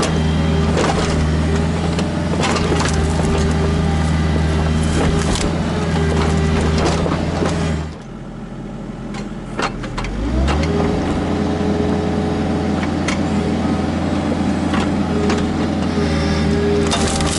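Kubota KX121-3 mini excavator's diesel engine running steadily, with sharp cracks and knocks of wood and roots being broken. About eight seconds in the engine sound drops away, then about two seconds later it rises in pitch and settles into a steady run again.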